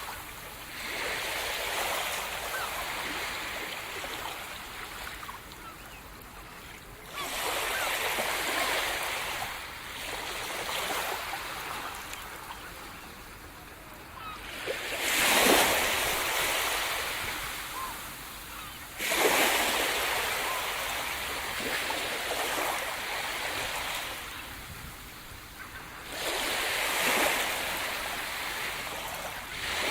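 Sea surf breaking on the shore: five waves in turn, each arriving with a sudden rush and then washing back and fading over several seconds.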